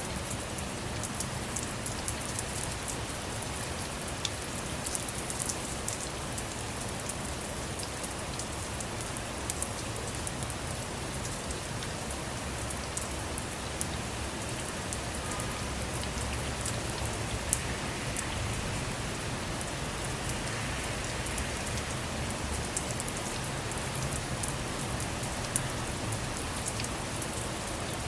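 Steady rain falling on a car, with a dense spread of sharp individual drop ticks and a few louder single drops now and then.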